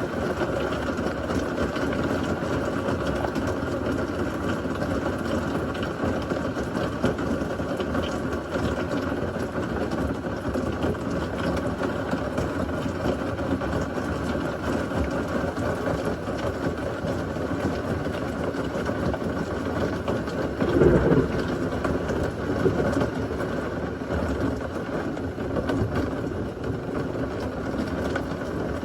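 Steady heavy rain of a severe thunderstorm, a dense even rush. About three-quarters of the way through there is a brief, louder low burst.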